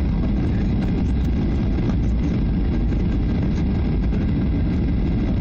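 Steady cabin noise of a Boeing 737-800 airliner in flight: a deep rumble of engines and airflow.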